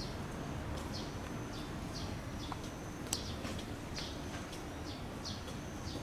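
A small bird chirping again and again, short high notes about twice a second, over a low steady rumble. A single sharp click comes about three seconds in.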